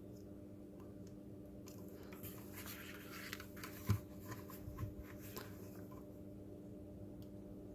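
Faint handling noise of small robot-kit parts and cables: rustling and light clicks for a few seconds, with one sharper knock about four seconds in, over a steady low hum.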